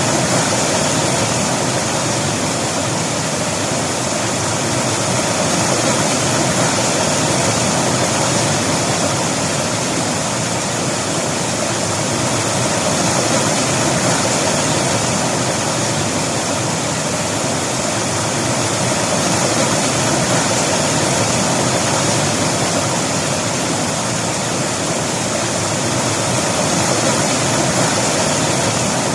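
River water flowing and splashing over rocks as a steady, unbroken rushing.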